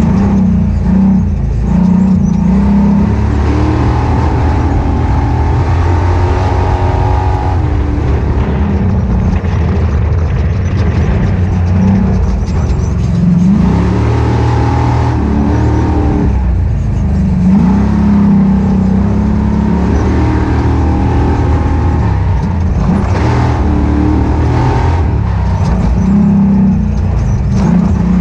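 Ultra4 off-road race car engine running hard, its revs climbing and dropping again and again as it is driven over the course.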